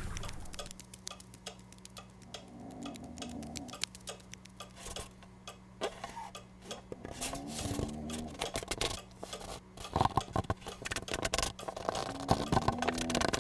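Cartoon sound effects for a small animated ant: a run of quick, light ticking steps, broken a few times by short chirping squeaks. A cluster of louder knocks comes about ten seconds in, over a faint steady low hum.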